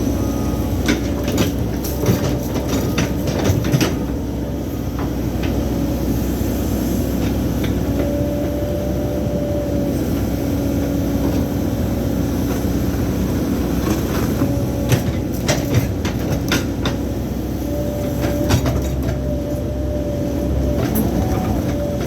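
Cat mini excavator's diesel engine running steadily, with a whine that rises and drops out several times as the machine works and sharp metal clanks and knocks, clustered in the first few seconds and again about two-thirds of the way through.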